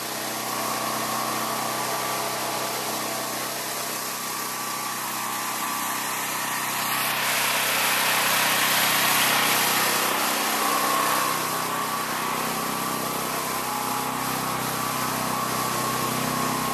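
An engine running steadily at a constant speed, with a broad rushing noise that swells for a few seconds in the middle and then fades back.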